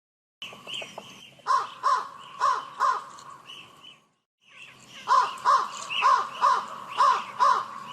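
Crow cawing: two runs of harsh, evenly spaced caws, about four in the first and about six in the second.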